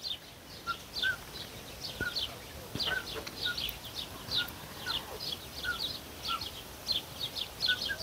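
Small birds chirping: a steady stream of short, high chirps, several a second, with a few softer, lower notes among them.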